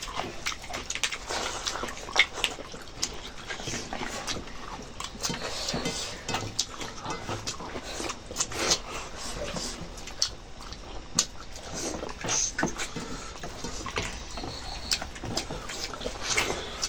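Close-up eating sounds: irregular wet chewing, lip smacks and small clicks as someone eats rice with chicken curry and broth.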